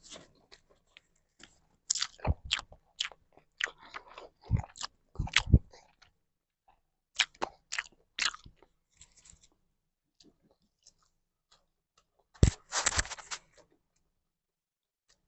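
Close-up chewing and crunching of food, coming in three bursts of crisp crackles with quiet gaps between.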